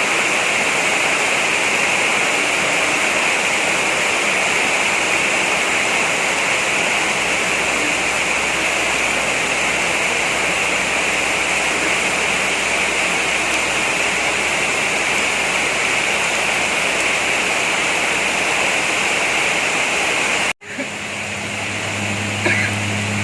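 Heavy rain pouring down in a steady, even hiss. Near the end it cuts off abruptly, and a steady low hum follows.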